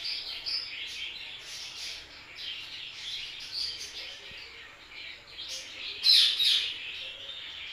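Birds chirping: many short, high chirps, with a louder cluster about six seconds in.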